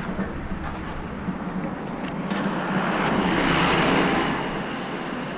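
A motor vehicle passing on the road: its noise swells about three seconds in, then fades, over a steady low rumble.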